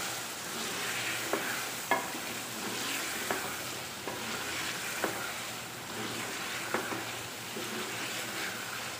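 Chicken and potato pieces sizzling as they fry in oil and masala, stirred with a spatula in a metal pot, with a few sharp knocks of the spatula against the pot.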